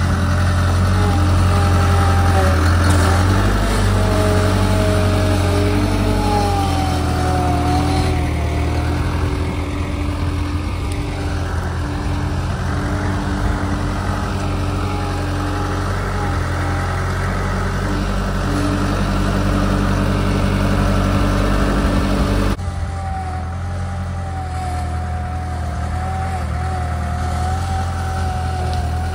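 Skid steer engine running under load while working, a steady low drone with a wavering whine from the hydraulics that shifts in pitch as the machine works. The sound changes abruptly about three quarters of the way through.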